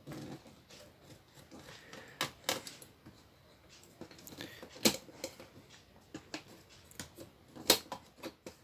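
Irregular clicks and light knocks of hands and tools working inside an opened LED TV, detaching a part from the chassis.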